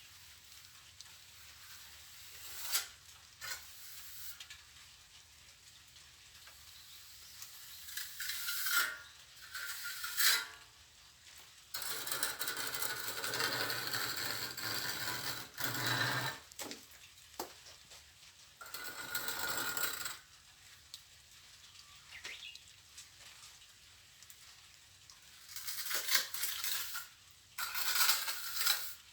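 Steel plastering trowel scraping and spreading mortar in stretches of a few seconds each, with a few sharp knocks in the first half.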